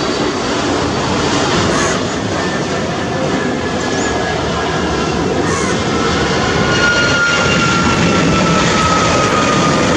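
Jet airliner's engines heard close by, a loud steady rush of noise with a thin high whine that slowly falls in pitch over the second half as the sound grows a little louder.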